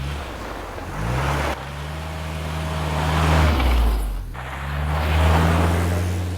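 Car engine accelerating, its pitch rising, then dropping back about four seconds in and rising again, as with a gear change.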